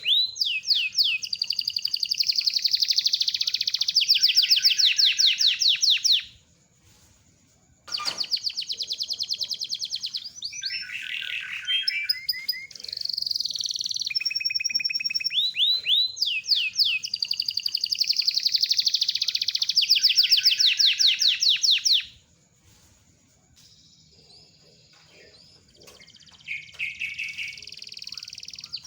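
Domestic canary (kenari loper) singing long rolling trills of fast repeated notes, in phrases several seconds long with short pauses about six seconds in and again near the three-quarter mark.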